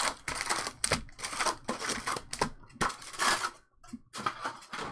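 2021 Topps Stadium Club baseball cards being flipped and slid through by hand, giving an irregular run of quick clicks and swishes several times a second.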